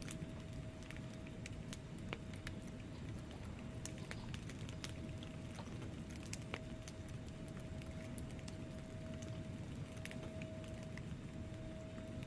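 Wood fire burning in a fireplace: logs crackling with frequent irregular sharp pops and snaps over a steady low rumble of flames.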